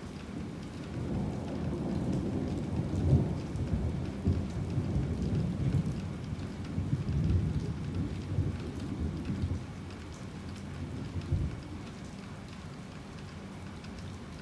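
Heavy rain falling steadily, with a low roll of thunder that builds about a second in, swells with several loud peaks, and dies away around ten seconds in; one more short rumble comes shortly after.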